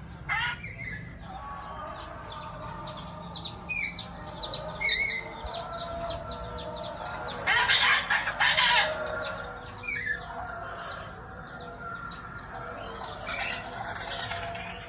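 Nuri Ambon parrot calling: short sharp squawks that slide in pitch, spread through, with a louder, harsh screech a little past halfway.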